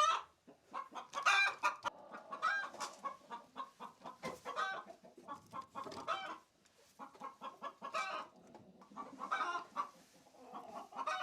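Hens clucking and cackling in a coop, many short irregular calls overlapping.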